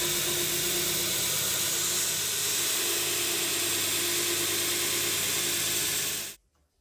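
A 2x48 belt grinder running as steel is ground against the abrasive belt: a steady, loud hiss over the motor's hum. It stops abruptly about six seconds in.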